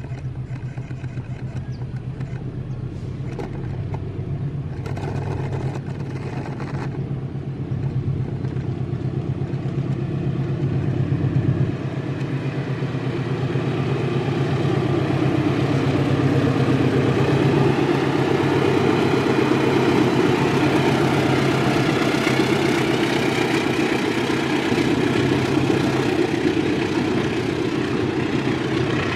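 Train with a diesel locomotive approaching: a steady low engine drone that grows louder, with wheel and rail noise building from about halfway through.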